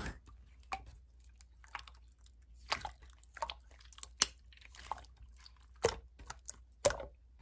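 Slime being squished and pressed by hand, giving small irregular crackling clicks and pops, a few of them louder.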